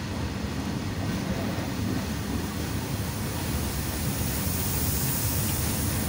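Freight train of open-top steel wagons rolling past: a steady low rumble with a hiss that grows stronger after about four seconds.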